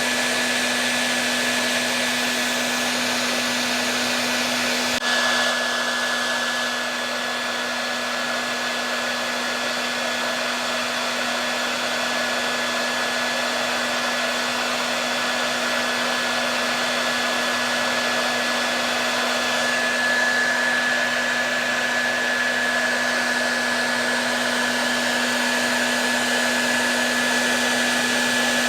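Hair dryer running steadily: an even rush of air with a low motor hum and a thin high whine.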